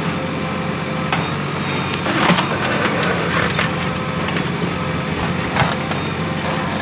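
JCB 3DX Plus backhoe loader's diesel engine running steadily while working, with several sharp knocks from the machine, the loudest a little over two seconds in.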